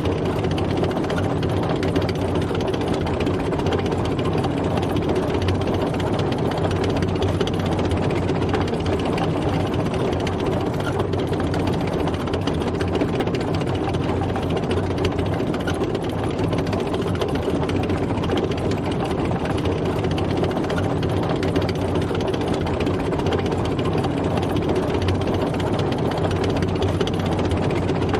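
Tank driving: a heavy engine running steadily under a dense, rapid clatter, typical of tracks and running gear.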